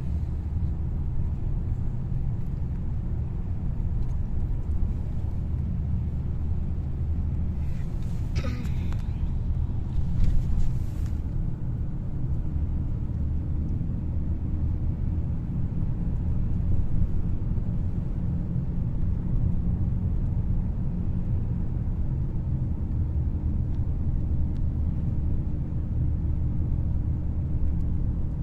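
Steady low road and engine rumble inside a moving car, with two brief sharper noises about a third of the way in.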